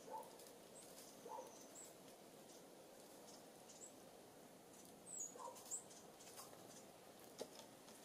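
Faint, high-pitched chirps of small birds: a handful of short calls scattered through, with a couple of soft taps in the second half.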